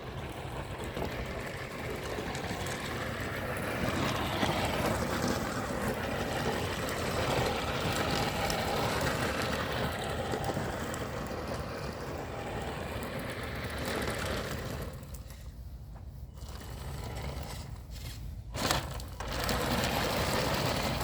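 Electric drive motors and gearing of a 3D-printed mouse droid running as it drives, a steady whirring grind that rises and falls; it drops away briefly twice near the end, with a sharp click between.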